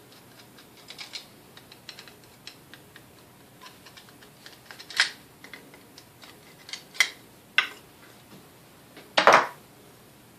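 Light clicks and taps of small metal mixer parts and tools being handled during disassembly, with a few sharper clacks and the loudest clatter near the end.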